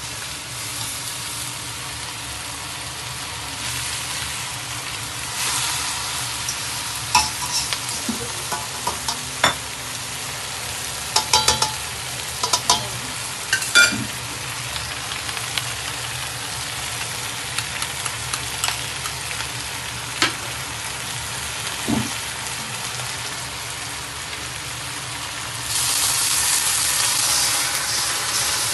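Whole chicken and onions sizzling in a hot stainless steel wok, with metal tongs clicking and scraping against the pan as the chicken is turned, mostly in the middle stretch. A few seconds from the end the sizzle turns louder and hissier as the seasoning sauce and water go into the hot wok.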